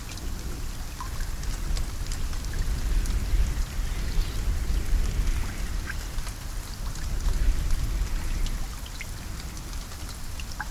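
Steady rainfall with many scattered individual drop ticks over a continuous low rumble.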